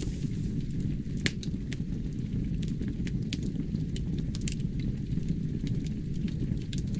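Logs burning in a fireplace: a steady low rush of flame with scattered sharp crackles and pops, one louder pop about a second in.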